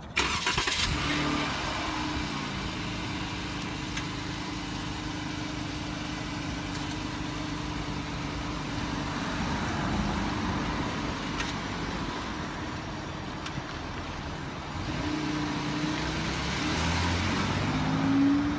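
SUV engine running steadily close by, then revving up near the end as the vehicle pulls away.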